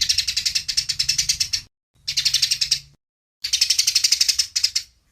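Eurasian tree sparrow giving its fighting chatter: fast runs of high chirps, about nine a second, in three bursts of one to two seconds each, separated by short silent gaps.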